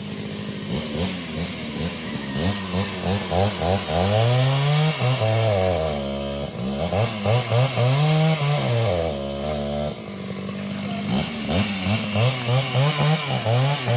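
Chainsaw engine revving up and down repeatedly, its pitch rising and falling over and over, with several quick throttle blips near the end.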